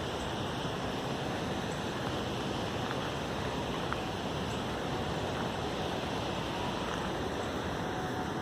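A steady rushing noise with no distinct events, and a faint steady tone that comes in near the end.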